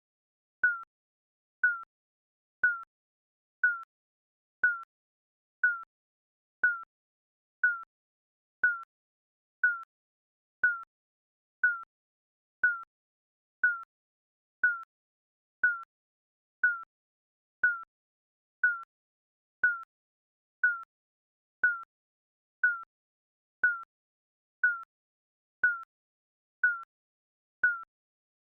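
Digital timer beep: a short, slightly falling electronic tone, repeated about once a second.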